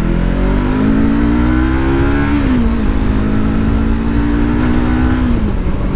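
Yamaha R3 motorcycle's parallel-twin engine pulling under throttle: its pitch rises for about two seconds, drops with a gear change, holds steady, then falls off near the end. Wind rushes over the rider's microphone throughout.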